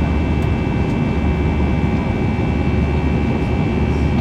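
Steady cabin noise inside an Airbus A321 in flight: an even drone of the jet engines and airflow, heaviest in the low end, with a few thin steady whining tones above it.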